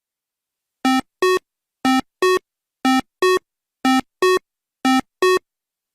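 Electronic two-note beeps: five identical pairs, each a short low tone followed by a higher one, repeating about once a second.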